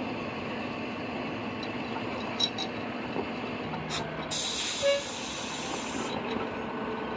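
Steady rumble of a heavy vehicle, most likely rail traffic. About four seconds in a sharp hiss of air starts and lasts about two seconds, with a short squeal partway through.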